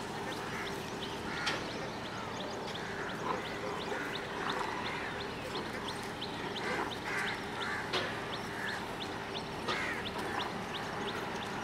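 Birds calling: a steady run of short high chirps, about three or four a second, over scattered lower calls.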